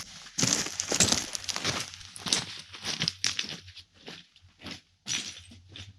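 Footsteps crunching and clacking on loose rock and gravel: a run of sharp, irregular cracks that come thick at first and thin out toward the end.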